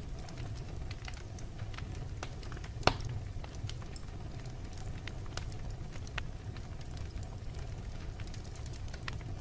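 Wood fire burning in a fireplace: a steady low rumble of flames with scattered crackles and one sharp, loud pop about three seconds in.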